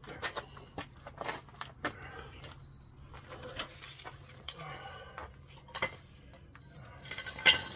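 Scattered light clicks and clatter of tools and wood being handled, with one sharp knock near the end; the reciprocating saw is not running.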